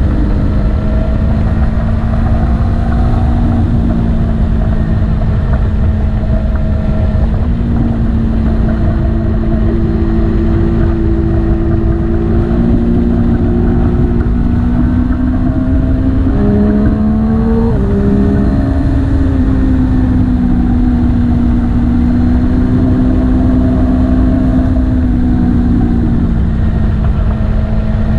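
Motorcycle engine running under way, buried in heavy wind and road rumble; the engine note holds fairly steady, then shifts up and down in pitch around the middle as the revs change.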